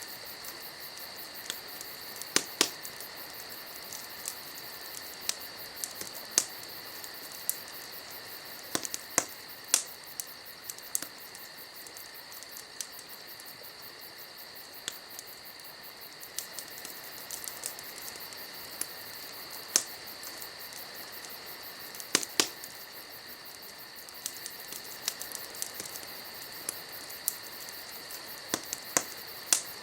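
Wood fire burning, with sharp crackles and pops at irregular intervals, a few of them loud. Behind it a steady high trilling of crickets goes on without a break.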